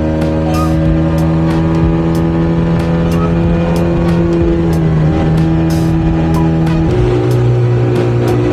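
Small outboard motor running, driving the boat under way.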